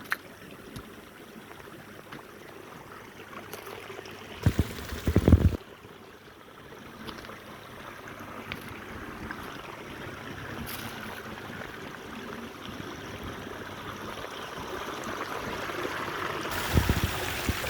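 Water running and splashing over the boulder waterfalls of a long backyard stream, steady and slowly growing louder. About four seconds in, a loud low rumble lasts about a second, and another starts near the end.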